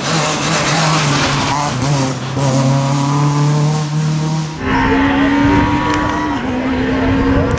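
Rally car engines at high revs. The first car climbs and drops in pitch through gear changes with tyre noise; about halfway through the sound cuts abruptly to another car holding a high, steady note that drops about a second before the end.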